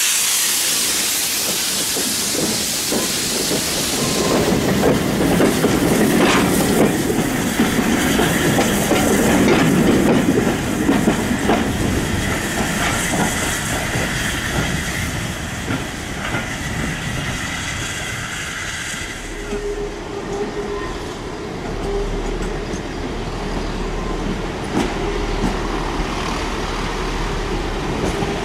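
A train moving through a station. A loud hiss fills the first few seconds, then the train runs past with clicks of the wheels over rail joints, and a low steady hum comes in about two-thirds of the way through.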